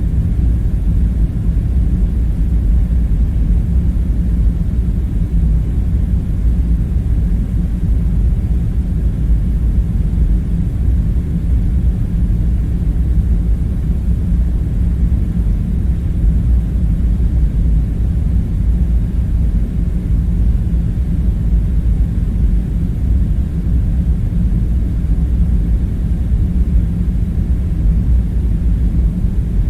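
Steady, deep rumble with a low hum under it, unchanging throughout: the background ambience of a bunker.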